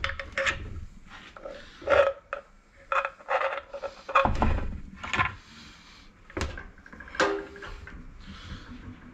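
Irregular metal clinks and knocks, some ringing briefly, from tools and parts being handled at a workbench.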